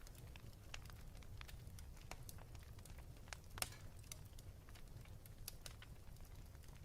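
Wood fire crackling in a fireplace: irregular small pops and snaps over a low steady rumble, with one sharper pop about three and a half seconds in.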